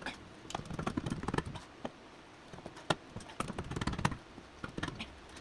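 Irregular clicks, clinks and knocks of hand tools and metal engine parts being handled during the teardown of a blown outboard V6.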